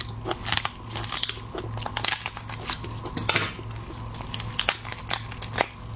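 Sharp, irregular clicks and taps of a lobster's shell being worked at with utensils and hands, close to the microphone.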